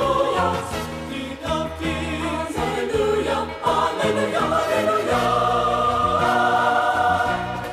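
Closing bars of a gospel song: a choir sings with accompaniment, ending on a long held chord from about five seconds in.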